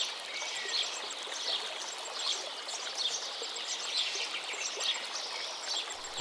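Running water makes a steady hiss while small birds chirp in a repeating pattern, a call about every three-quarters of a second. A single sharp click comes at the very end.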